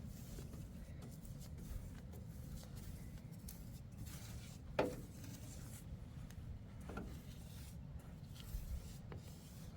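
Quiet room tone with a low rumble and a few soft knocks, and one short, sharp sound about five seconds in.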